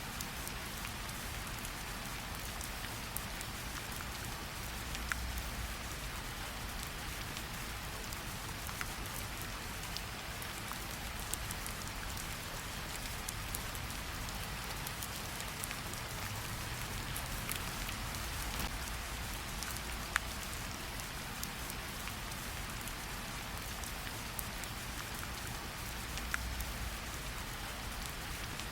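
Steady rain pattering down, with scattered individual drops ticking close by throughout.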